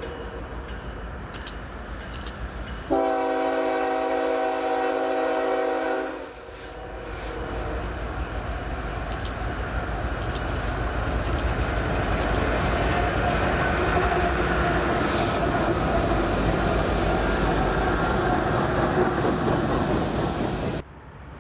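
BNSF locomotive's multi-chime air horn sounding one blast of about three seconds, starting and stopping abruptly. Then the train passes close, a steady rumble of engines and rolling cars that grows louder, with wheels clicking over rail joints.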